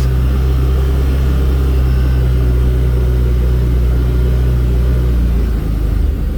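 A vehicle engine running steadily under way, its note dropping about five seconds in.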